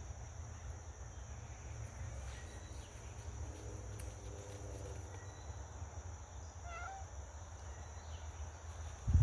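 Domestic cat meowing faintly: one drawn-out low meow, then a short higher call a couple of seconds later. Under it runs a steady high insect drone, and a thump comes right at the end.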